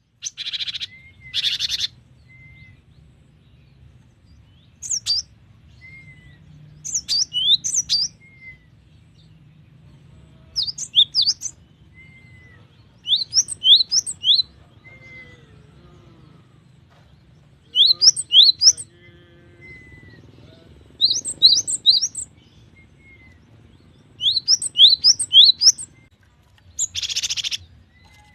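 Gelatik batu (cinereous tit) singing: repeated phrases of quick, high, downward-slurred whistled notes, one phrase every two to three seconds. Short harsh buzzy calls come at the start and again near the end.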